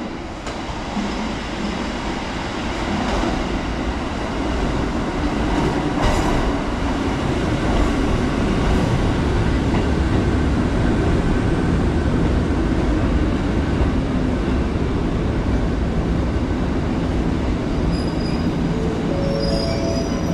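Kotoden electric train running on the rails, a steady rumble that builds over the first few seconds. A short stepped, rising whine comes in near the end.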